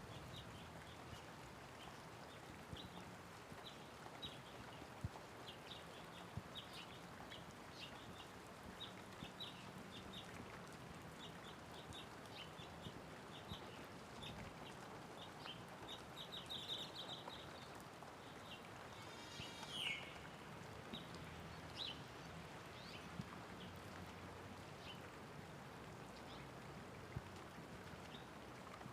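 Light rain falling steadily with small birds chirping over it. There are many short high chirps through the first half, a quick trill a little past the middle, and one call sweeping down in pitch about two-thirds of the way in.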